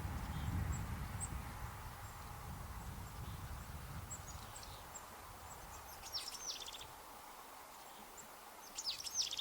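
Boreal chickadee calling: scattered thin high notes, then two short clusters of calls about six seconds in and near the end. A low rumble sits under the first half and fades out.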